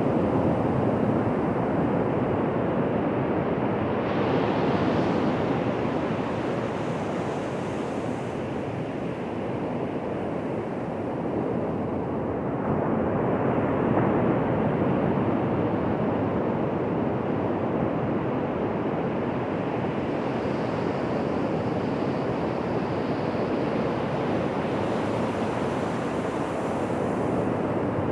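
Ocean surf: waves breaking and washing up a beach, a continuous rush of water that swells and eases over several seconds, with louder surges about four seconds in and again about twelve to fourteen seconds in.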